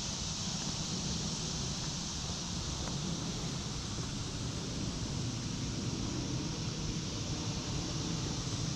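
Steady woodland ambience: an even, high hiss over a low, unsteady rumble, with no distinct calls or knocks.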